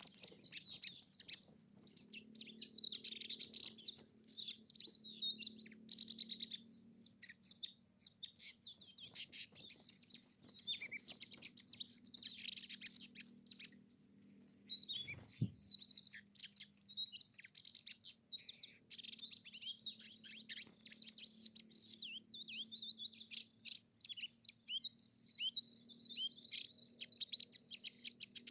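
Small birds chirping and twittering in a rapid, dense stream of high-pitched calls, with a faint low hum beneath and a single soft thump about halfway through.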